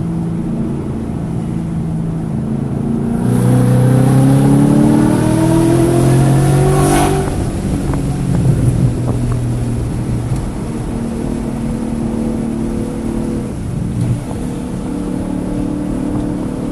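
Car engine on a racetrack, pulling hard for about four seconds with its pitch rising. A brief sharp break follows, and the engine drops back to a lower, steadier note. The engine is misfiring on cylinders 1, 3 and 4 this session, with the check-engine light blinking.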